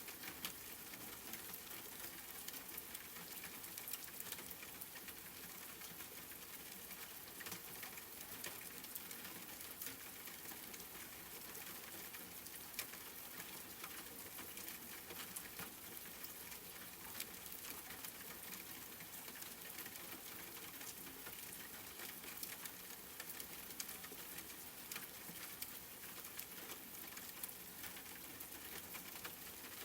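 Steady rain pattering, with many small drops ticking sharply and irregularly over a soft hiss.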